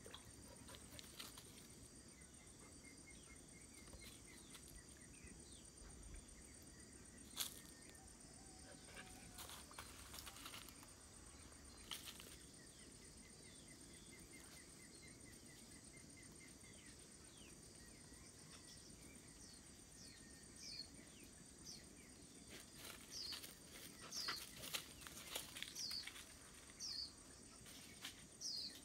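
Quiet outdoor ambience with a few faint clicks and short runs of rapid ticking. In the last third a small bird starts calling, short high chirps that fall in pitch and come more and more often.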